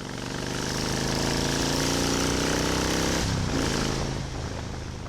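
Motorcycle engine running steadily, its note changing a little past three seconds in. The sound fades in at the start and fades out at the end.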